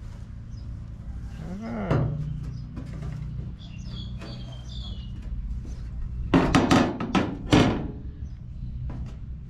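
Small birds chirping, then about two-thirds of the way through a quick run of about five loud animal calls over a second and a half, over a low steady hum.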